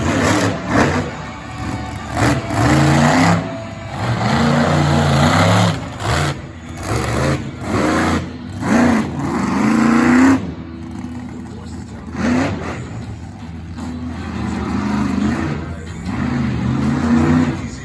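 Monster truck engine revving hard in repeated surges of a second or more, each climbing in pitch and then dropping back, as the truck accelerates and lifts off between moves in a freestyle run.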